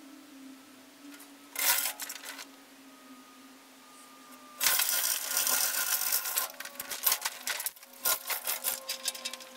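Metal rigging being worked by hand: chain and hardware scraping and rattling in two bursts, then a fast run of clicks and rattles from about six and a half seconds in. A faint steady hum sits underneath, slowly dropping in pitch.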